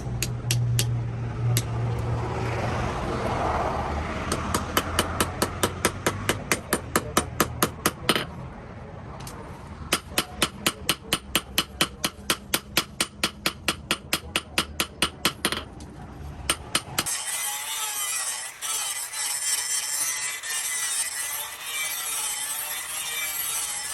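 Hammer blows on steel in two long runs of rapid, evenly spaced strikes, about four to five a second, over a low steady hum. After about seventeen seconds a steady scraping noise takes over.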